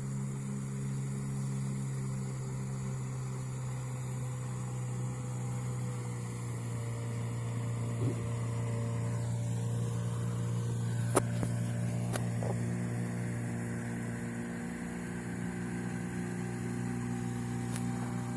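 A vehicle's engine running steadily, a constant low drone with a few light clicks near the middle.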